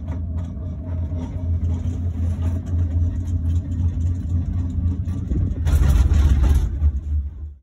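Steady low rumble of a Skyrail cable-car gondola in motion, swelling louder with added hiss for about a second near the end before cutting off abruptly.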